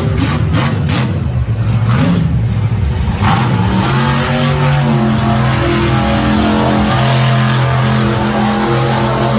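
Monster truck engine running hard. About three seconds in it surges and then holds a steady high-revving note.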